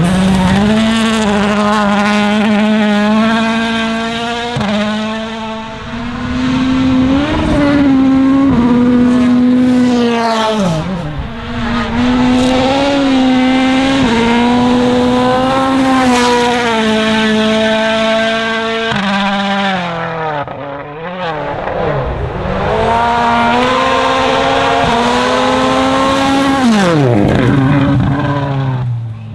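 Toyota Yaris WRC rally car's 1.6-litre turbocharged four-cylinder engine at full throttle, rising in pitch and stepping up through the gears, dropping sharply twice when the driver lifts and brakes, then falling in pitch and level near the end.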